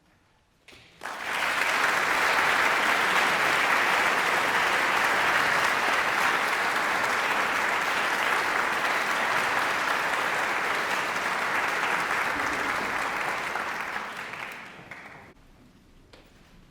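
Concert audience applauding at the end of a piece, starting suddenly about a second in, holding steady, then dying away near the end.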